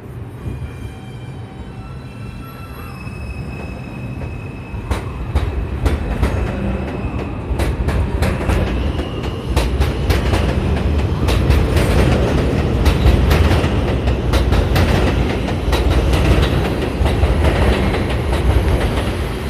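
A New York City Subway 5 train pulling out of the station and picking up speed, growing steadily louder, with a whine at first and then its wheels clicking over the rail joints.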